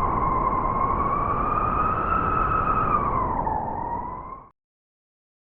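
One long wolf howl at a held pitch that rises slightly, then dips about three and a half seconds in, over a low noisy rumble. It starts and cuts off abruptly.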